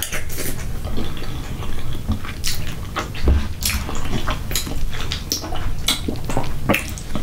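Close-miked chewing of a mouthful of seasoned rice, with wet mouth clicks and smacks, and a metal spoon now and then clicking against the dishes.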